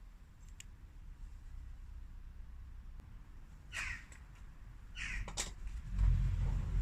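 A crow cawing, two harsh calls about a second and a half apart, over a faint low background, with a louder low rumble coming up near the end.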